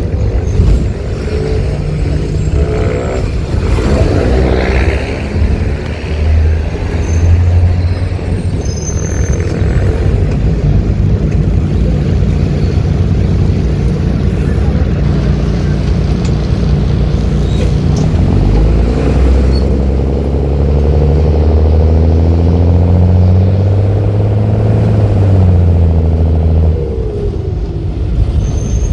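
Mercedes-Benz OH-1318 bus's six-cylinder diesel engine running loud through a free-flow exhaust as the bus pulls away and works up through the gears. The engine note climbs, drops at each gear change, climbs again and falls off near the end.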